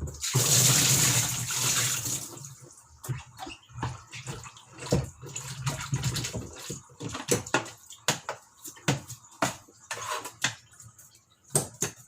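Water rushing for about two seconds as washing-machine parts are rinsed, then irregular splashes and sharp knocks of the parts being scrubbed and handled in the water.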